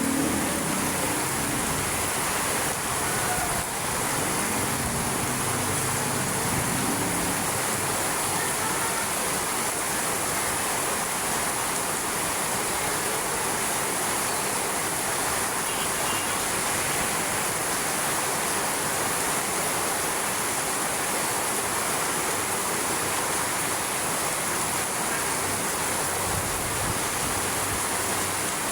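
Hard rain falling steadily, an even hiss that does not let up.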